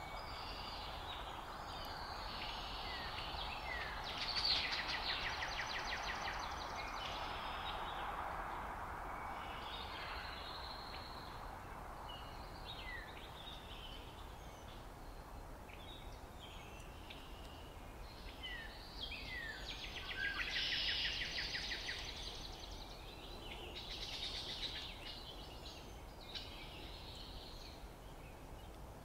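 Several songbirds singing at once: short slurred chirps scattered throughout, and a loud, fast trill of rapidly repeated notes twice, about four seconds in and again about twenty seconds in. A steady background rush runs underneath.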